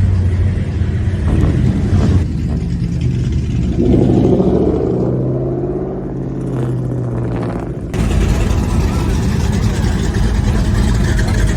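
Modified car engines rumbling. About four seconds in one revs and its pitch falls away over several seconds. About eight seconds in the sound cuts abruptly to a louder, rougher engine rumble.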